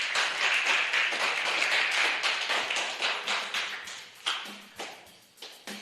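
A group of people clapping, dense at first, then thinning to a few scattered claps and dying away.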